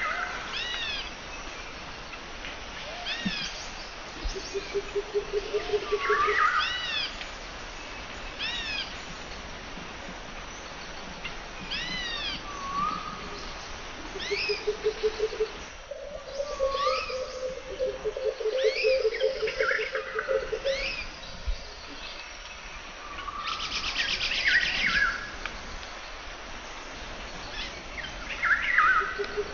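Birds chirping: short arched calls repeated in quick runs, mixed with a lower pulsing trill about a second and a half long that comes back several times, and a brief rapid rattle about three-quarters of the way through.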